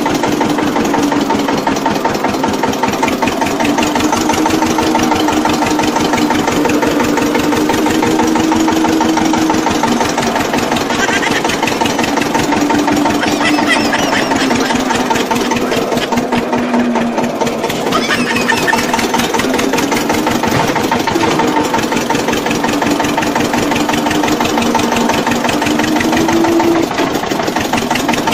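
Engine of a homemade mini tractor running steadily with rapid firing, its speed drifting up and down, rising a little near the end before easing off.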